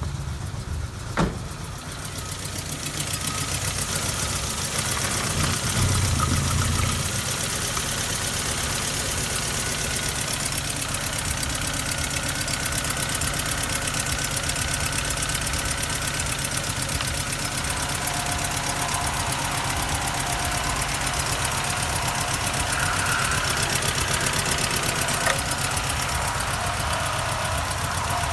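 Nissan QG18DE 1.8-litre petrol inline-four running steadily at idle, with a sharp click about a second in.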